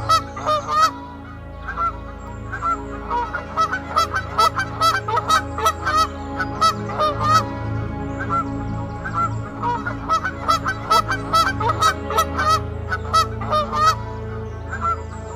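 A flock of birds calling, many short repeated calls overlapping at several a second, over a low steady hum.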